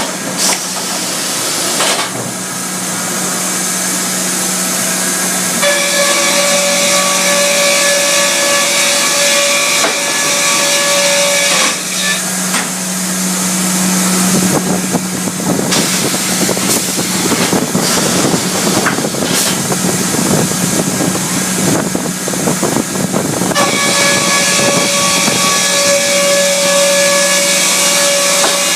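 Baker band sawmill and edger cutting oak: a steady machine hum throughout, with the band blade's high, several-pitched whine during cuts, once from about six seconds in and again near the end, and a rougher, noisier stretch in between.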